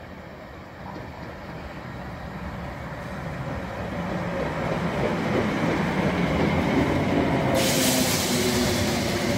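Electric multiple-unit passenger train arriving alongside a platform, its running rumble growing steadily louder as it draws near. Near the end a hiss starts suddenly over the rumble.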